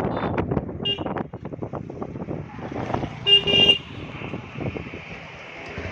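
A vehicle horn honking: a short toot about a second in, then a louder, half-second honk in two parts about three and a half seconds in, over uneven traffic and riding noise.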